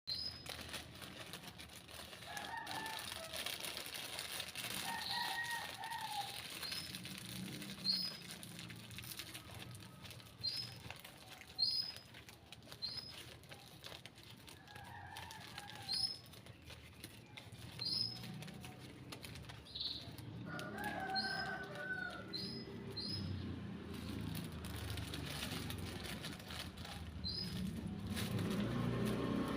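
Yellow-vented bulbuls and other small birds calling: short high chirps repeated every second or two, with a few lower bubbly phrases between them.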